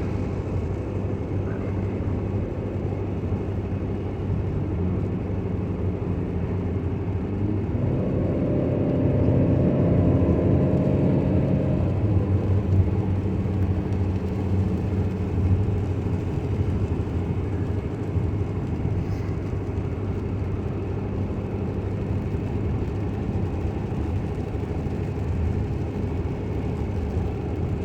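Steady road and engine noise heard from inside a car driving on a wet road in the rain. A louder, humming stretch with a steady pitch lasts a few seconds around the middle.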